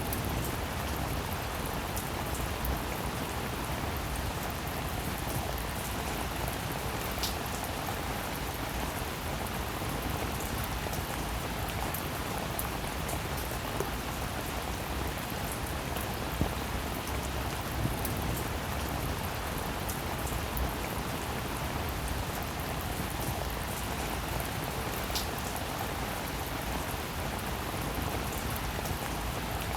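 Steady rainfall, an even hiss with occasional individual drops ticking out above it.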